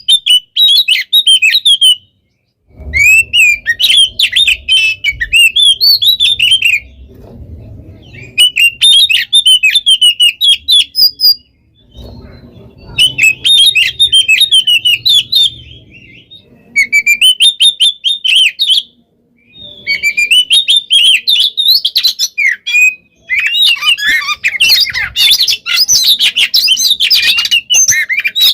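Oriental magpie-robin (kacer) singing at full volume in long, rapid phrases of fast whistled and chattering notes, each several seconds long, broken by brief pauses. This is the nonstop 'gacor' song used as a lure to get other kacers singing.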